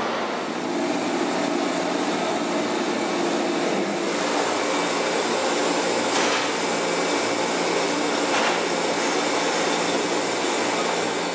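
Steady running noise of an electric train heard from inside the carriage: an even rushing with a low hum running under it.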